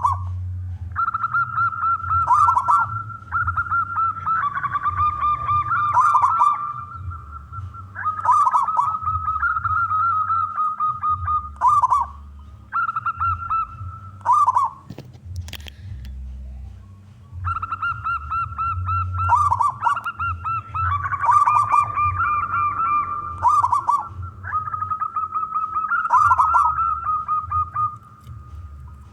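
Male zebra dove (perkutut) cooing its song: a string of repeated phrases, each a held note breaking into a fast rolling trill, with a pause of a few seconds about halfway through. A steady low hum runs underneath.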